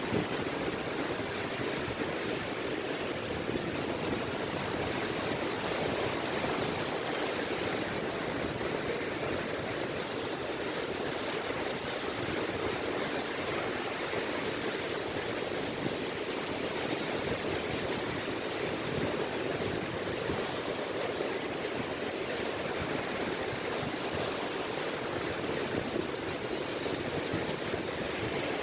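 Small sea waves washing ashore, a steady, even wash of water.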